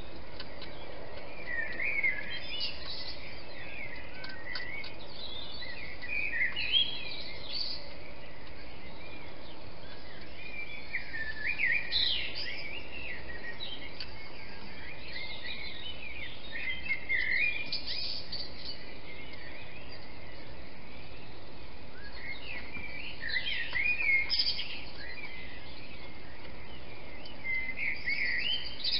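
A songbird singing short, varied phrases about every five seconds over a steady background hiss.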